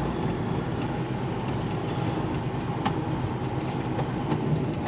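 Articulated lorry's engine running low and steady, heard from inside the cab, with a few light clicks.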